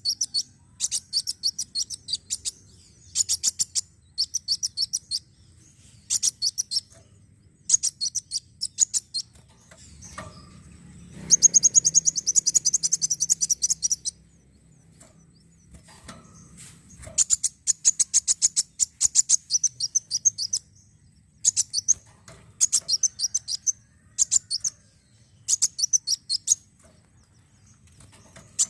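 Kolibri wulung sunbird song used as a lure to set other sunbirds singing. It comes as repeated short bursts of rapid, high-pitched chirps, each about a second long, with a longer and louder run of chirping about eleven seconds in.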